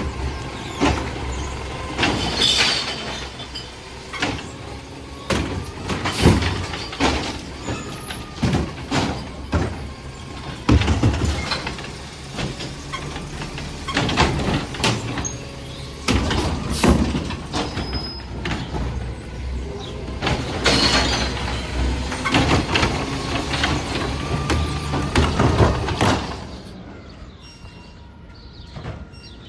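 Garbage truck collecting recycling carts: the engine runs steadily under repeated bangs and clatter, with a whine that rises and falls a few times. The sound drops off and thins out near the end.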